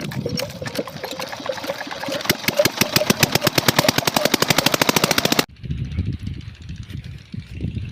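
Water-pump engine running with a rapid, even knocking beat. The sound stops abruptly about five and a half seconds in and gives way to a duller, lower rumble.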